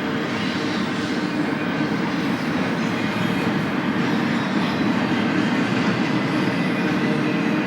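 BNSF freight train rolling past steadily, its cars' wheels running on the rails in a continuous loud rumble.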